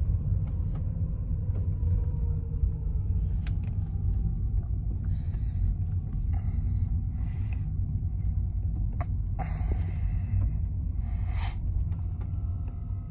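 Steady low rumble of a car moving slowly, heard from inside the cabin, with several short bursts of hiss over it.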